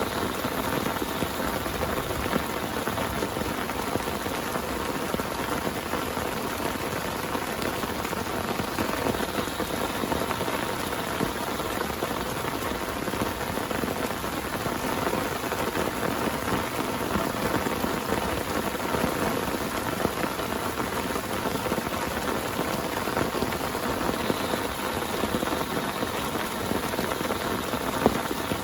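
Heavy rain falling steadily on a tent, a dense, even spatter of drops.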